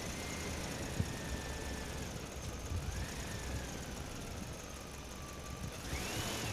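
A motor running steadily with a low rumble and a faint whine that slowly wavers in pitch, with a single click about a second in and a short hiss near the end.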